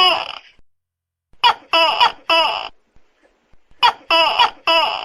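Tokay gecko calling loudly: bouts of a short opening note followed by two longer, pitch-bending 'to-kek' notes, repeated about every two and a half seconds, twice in full after the tail of a previous bout.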